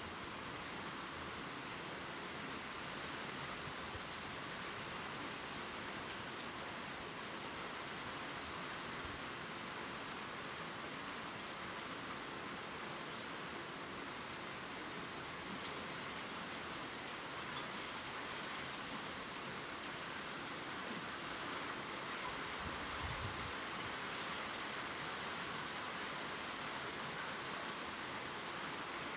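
Gentle steady rain pattering on leaves, an even hiss with scattered faint drip ticks.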